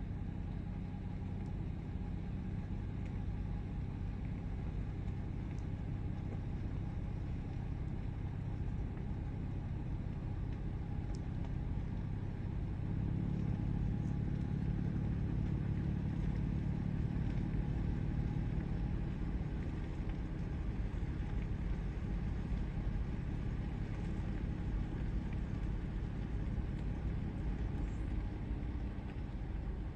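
A vehicle's engine idling with a steady low hum and rumble, which grows somewhat louder for several seconds around the middle.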